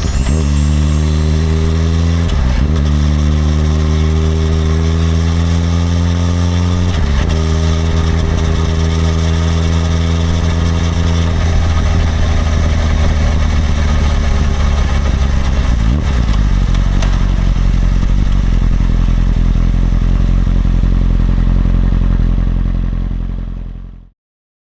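Suzuki GSX-R1000R inline-four engine accelerating through the gears: the note climbs steadily, drops at upshifts about two, seven and sixteen seconds in, then runs more evenly with wind noise. It fades out near the end.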